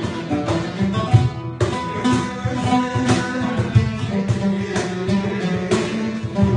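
Instrumental passage of a Turkish folk-style song: plucked oud and acoustic guitar play the melody over hand-drum hits from cajon and darbuka.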